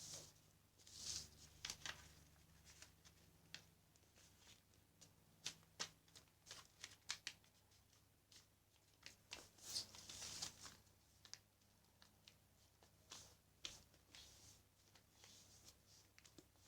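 A sheet of paper being folded and creased by hand: faint, irregular rustles and short crisp creasing clicks.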